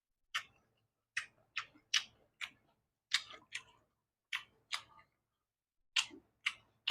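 Close-up eating sounds of a person biting and chewing boiled corn: a run of short, sharp, wet clicks and smacks, irregular at about two a second.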